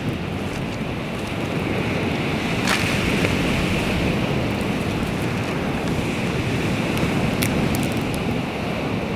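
Baltic Sea waves washing onto the shore: a steady rushing surf that swells a little partway through, with a few sharp clicks over it.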